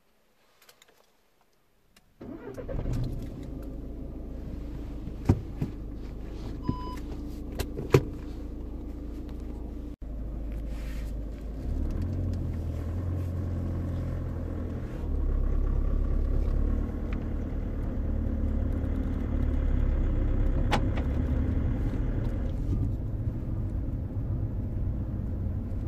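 Skoda Fabia's 1.6 TDI diesel engine starting about two seconds in, then running with a steady low rumble that grows louder in steps as the car gets under way. Two sharp clicks come a few seconds after the start.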